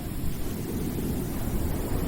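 Continuous rushing noise of a white-noise track, heaviest in the low rumble, easing a little and then swelling again near the end.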